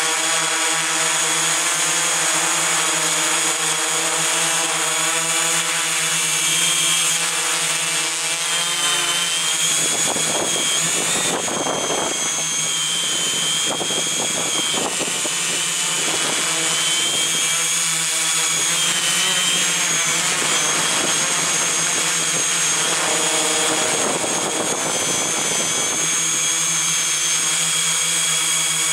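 Electric motors whining steadily at a high pitch, with stretches of wind rushing over the microphone through the middle.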